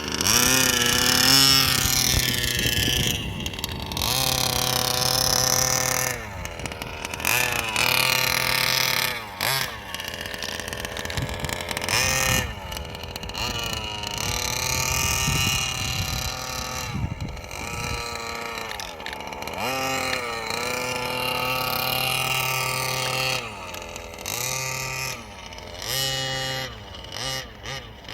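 Rebuilt Zenoah G320RC 31.8cc two-stroke RC engine revving up and down over and over, its pitch climbing and falling back every few seconds as the throttle is worked, while it is run rich to break it in.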